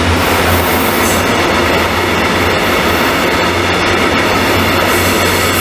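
Freight train of open coal wagons rolling past, with the steady, loud running noise of wagon wheels on the rails.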